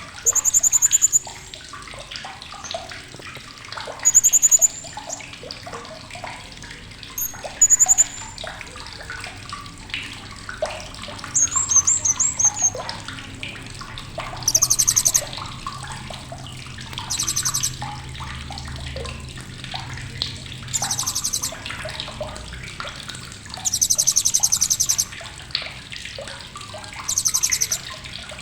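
Blue-crowned hanging parrot (srindit) giving sharp, very high, buzzy trills in short bursts every few seconds, about nine in all, over a busy background of lower chirps and clicks.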